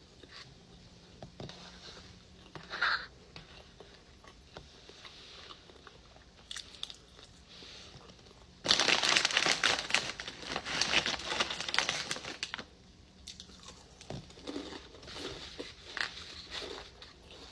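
Quiet chewing and small mouth clicks while eating, then about four seconds of loud crinkling from packaging being crumpled, starting a little past halfway.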